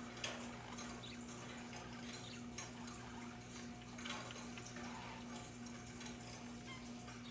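Faint budgerigar chatter: scattered soft chirps and clicks over a steady low hum.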